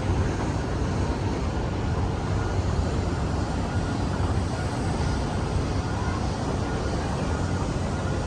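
Steady low engine rumble in an outdoor city soundscape, with no single event standing out.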